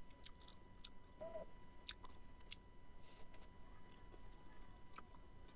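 Faint close-miked chewing and mouth sounds of a person eating smoked pork: scattered soft clicks and smacks.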